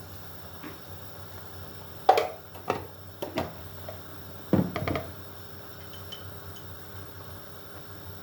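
Kitchenware being handled: a few short knocks and clatters about two seconds in, then a louder cluster of clacks around four and a half seconds, over a steady background hiss.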